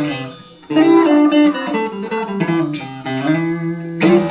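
Electric guitar playing a slow blues fill: a Van Zandt Telecaster through a Roland JC-120 amp, single notes and chords ringing. The notes fade briefly at the start, fresh notes are picked about two-thirds of a second in, and a loud chord is struck near the end.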